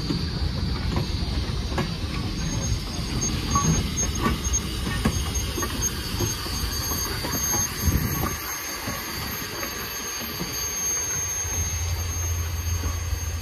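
Railroad cars rolling slowly past: steel wheels rumbling and clicking over the rail joints, with a thin high squeal above. About eight seconds in the rumble falls away, and a steady low hum takes over as the small steam locomotive comes by.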